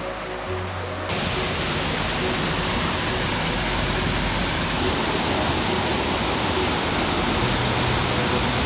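Steady rushing of a waterfall, cutting in abruptly about a second in over faint background music.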